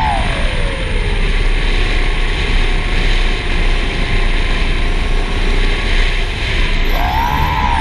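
A motor's whine over a steady rushing noise. Its pitch glides down over the first second or so, holds lower, then swings up and down again near the end.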